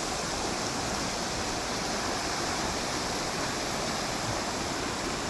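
Steady rush of a small stream in flood, swollen by heavy rain and running fast.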